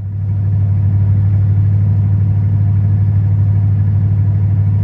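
1987 Ford F250's carbureted 460 big-block V8 idling just after a cold start, getting a little louder in the first second and then running steadily.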